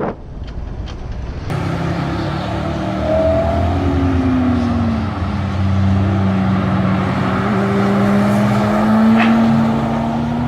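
Motorcycle engine running, its pitch sliding up and down as it changes speed. It starts abruptly about a second and a half in, after a few short clicks.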